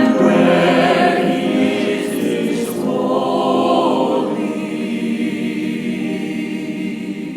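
A church choir singing the last phrases of the introit, its sound slowly fading toward the end.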